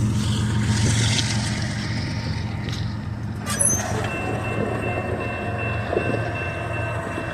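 Freight train's rear distributed-power diesel locomotive running with a steady low rumble, with a brief high-pitched squeak about three and a half seconds in.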